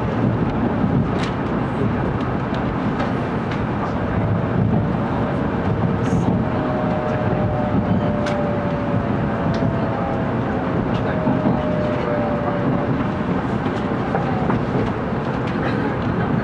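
Steady running rumble of a 700 series Shinkansen, heard from inside a passenger car. A faint whine over it falls slightly in pitch from about four seconds in until near the end, as the train slows for the Kyoto stop. A few sharp ticks are heard over the rumble.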